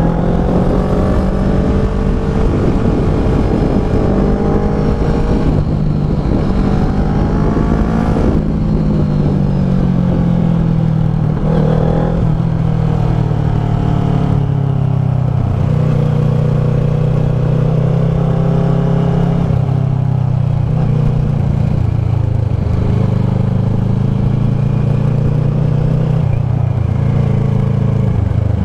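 Kawasaki ER-6f's parallel-twin engine running through a Leo Vince SBK slip-on exhaust while riding, its note rising and falling with the throttle several times.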